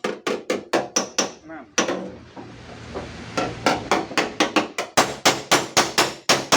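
Rapid hammer blows on the dented sheet metal of a car's tailgate, about four or five a second, as the dent is knocked out. The blows stop for about a second and a half partway through, leaving a steady hiss, then start again.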